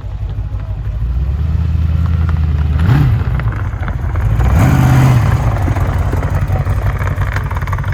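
Engine idling, revved twice by the throttle: a short blip about three seconds in, then a longer, louder rev a little later, each dropping back to idle.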